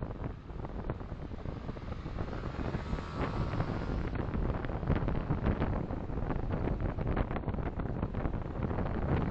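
A car driving, heard through a dashcam: steady low road and wind rumble with many small crackles and clicks.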